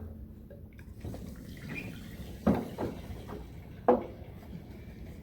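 Clunks and knocks of a diesel container being handled at a tractor's fuel filler, three sharp knocks standing out in the middle, with faint liquid sloshing.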